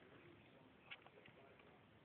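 Near silence: faint room tone, with one small click about a second in.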